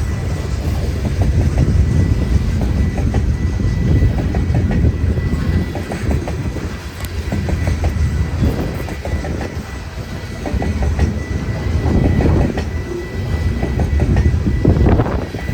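Freight train cars rolling past, a steady low rumble with wheels clicking over rail joints.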